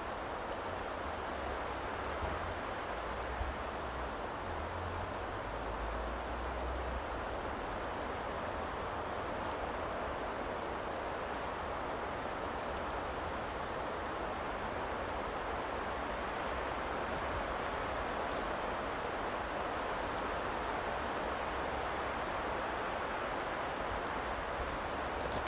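Steady woodland ambience: an even rushing hiss with faint, short high chirps scattered throughout, and a low rumble in the first several seconds.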